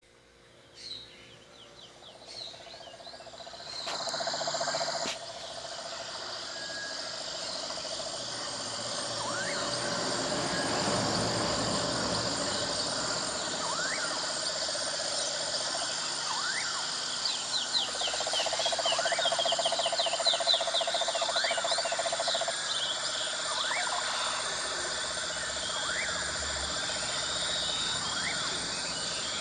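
Outdoor animal chorus: a steady high chirring of insects, a short rising whistled call repeated about every two seconds, and a low pulsing trill that comes and goes. A quick run of high chirps joins in about two-thirds of the way through.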